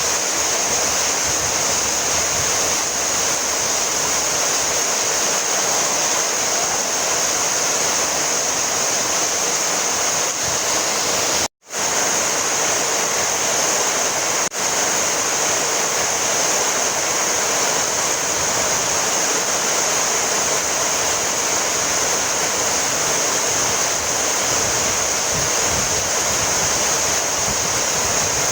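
Heavy rain falling steadily, a dense even hiss. The sound cuts out for a split second a little before the middle, then resumes unchanged.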